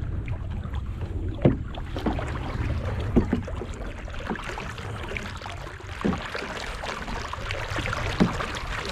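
Canoe being paddled: paddle strokes in the water with a few short knocks at irregular intervals, over a steady low rumble.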